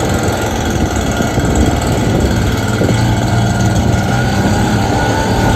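An engine running steadily at a constant speed, with a low hum that does not change.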